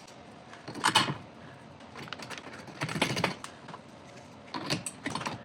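Small metal hardware clicking and rattling as bolts are fitted by hand into a steel bracket of a garage door spring assembly, with one sharp clink about a second in and bursts of clattering clicks around three seconds and near the end.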